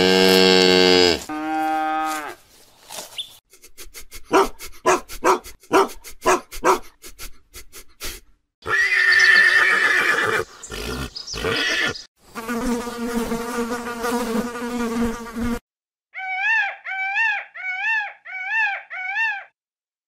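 A run of different animal calls one after another: a pitched call at the start, a stretch of rapid clicking pulses, two longer pitched calls, then six short rising-and-falling calls near the end.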